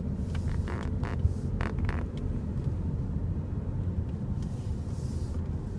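Cadillac SRX driving along a winding road, heard from inside the cabin: a steady low rumble of engine and tyre noise, with a few light clicks in the first two seconds.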